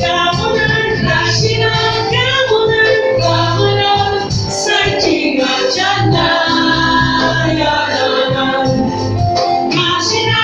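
Gospel song performed live by a church band, several voices singing together over the instruments with sustained bass notes underneath.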